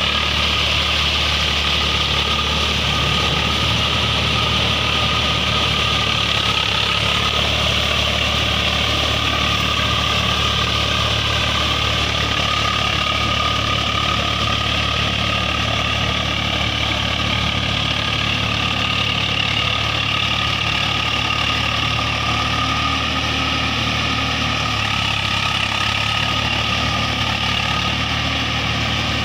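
A heavy diesel engine running at a steady speed, with no clear revving up or down.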